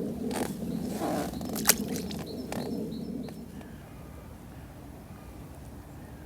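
Close handling noises: a few knocks and clicks, the sharpest about a second and a half in, over a low rustle that dies down after about three seconds.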